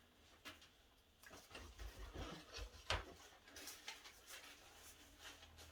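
Faint handling sounds as artificial flower stems are set aside and picked up: light rustles and small taps, with one sharper click about three seconds in.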